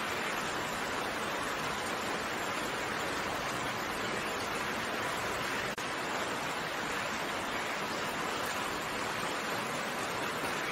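Steady rain falling, an even hiss with no separate drops standing out, broken by a momentary dip in level just past the middle.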